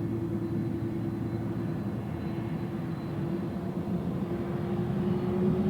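Airbus A330-200's GE CF6 turbofan engines running up for the takeoff roll: a steady whine over engine rumble, the whine rising slightly in pitch and getting louder near the end.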